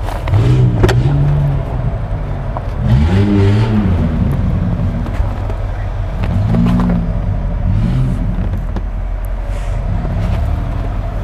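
Mercedes-Benz GL 63 AMG's 5.5-litre twin-turbo V8 idling, blipped about four times, each rev rising and falling straight back to idle.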